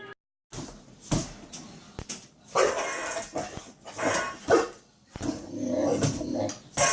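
A dog barking and vocalizing in several separate bursts.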